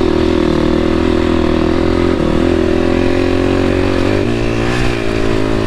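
KTM 250 four-stroke dirt bike engine running steadily under throttle while riding, its note shifting in pitch about four seconds in.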